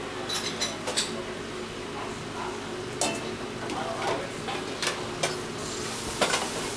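Hot oil sizzling steadily as crab pieces fry, with several sharp metal clanks and scrapes of tongs and a wok ladle against the wok and a wire fryer basket.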